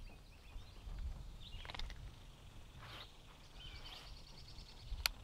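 Outdoor ambience of birds chirping on and off over a low steady rumble, with one sharp click near the end.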